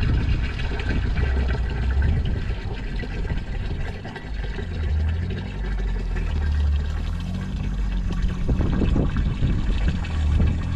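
Strong winter storm wind buffeting the microphone: a loud, gusting low rumble that rises and falls.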